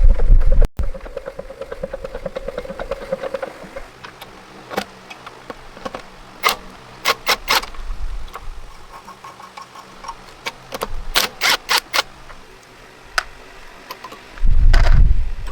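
Scattered sharp metallic clicks and taps of work on a tractor, between stretches of a tractor engine's low rumble at the start and again starting about a second before the end.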